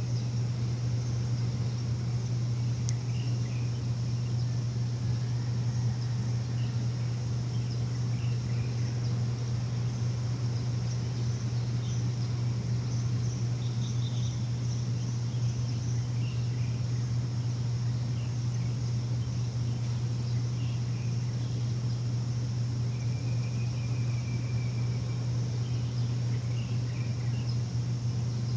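A steady low machine hum that never changes, with a thin steady high sound above it, and birds chirping briefly now and then over the top.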